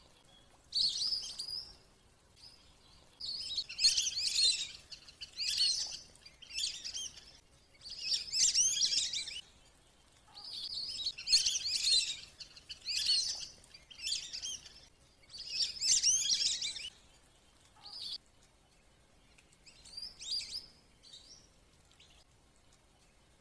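Wandering whistling ducks (belibis kembang) giving high twittering whistles in repeated bouts of about a second each with short pauses, thinning out near the end. It is a lure call meant to bring the flock down to land.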